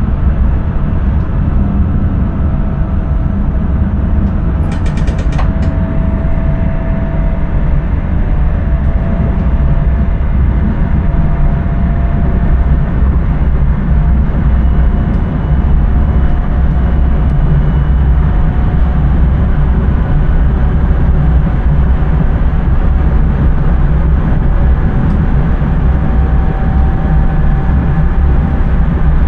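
Intercity train running steadily, heard from inside the driver's cab: a loud, even rumble of the wheels on the rails. A short run of clicks comes about five seconds in.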